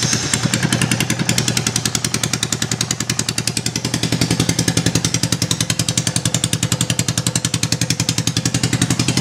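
1999 Honda Foreman 400's single-cylinder four-stroke engine idling with the exhaust removed, a steady, rapid train of open exhaust pulses.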